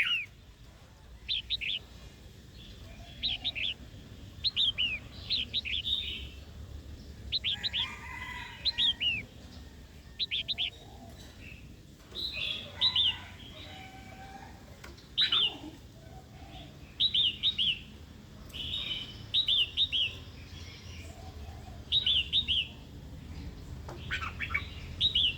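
Female red-whiskered bulbul singing: short, sharp phrases of quick down-slurred chirps, repeated every second or two. It is the provoking female song that keepers play to rouse a newly caught male into singing and fighting.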